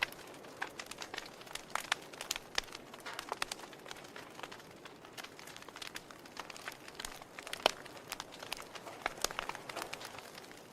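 Wood fire in a fireplace crackling: irregular sharp pops and snaps from the burning logs over a soft steady hiss of the flames, with one louder pop about three quarters of the way through.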